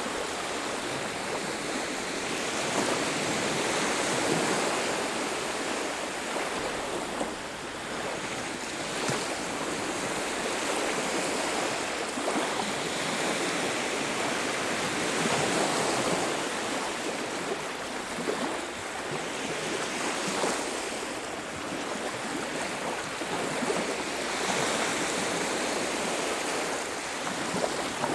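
Ocean waves breaking and washing up on a beach, a continuous surf wash that swells and eases every few seconds.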